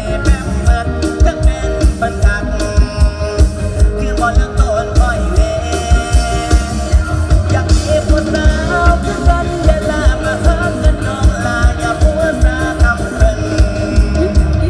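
Live Thai luk thung / mor lam band music: a steady, fast bass-drum beat under a sung melody with backing instruments.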